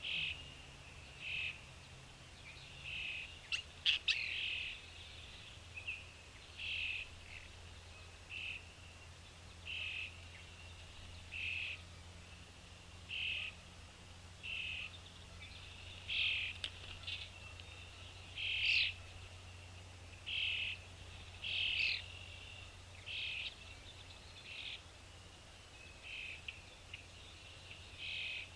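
A bird chirping: one short call about every one and a half to two seconds, repeated evenly throughout, over a faint steady low hum, with a couple of brief clicks.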